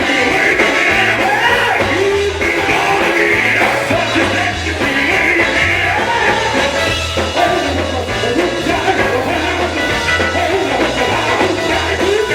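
Live gospel band playing an upbeat number, with a pulsing bass line and voices singing over it.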